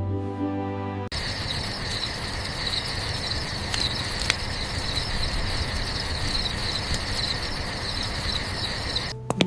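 Crickets chirping in a fast, even rhythm over a low steady hiss, after soft music cuts off about a second in.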